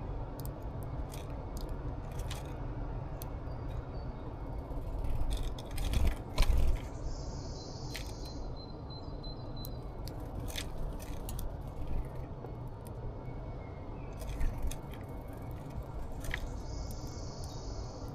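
Birds at a feeder pecking and cracking seeds: scattered sharp clicks and crunches, with a louder run of knocks about six seconds in and again near fifteen seconds, over a steady low rumble.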